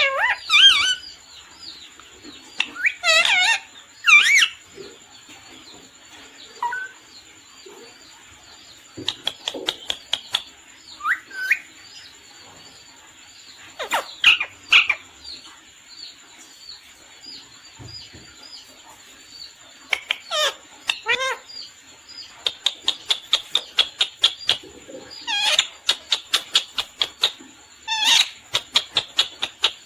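Pet parrot calling: repeated sharp squawks and chirps, some sliding down in pitch, with a quick run of short chirps at about five a second in the second half.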